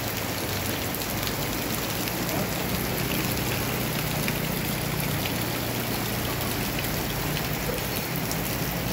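Heavy rain falling steadily, an even hiss with scattered ticks of drops striking surfaces, over a low steady hum.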